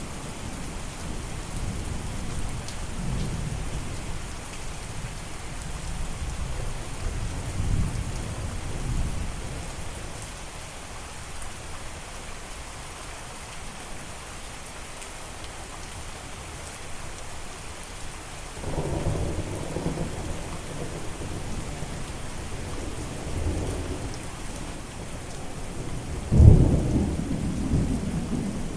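Steady rain with rolling thunder. Low rumbles swell and fade through the first third, a new rumble starts about two-thirds through, and a sharper, louder thunderclap comes near the end.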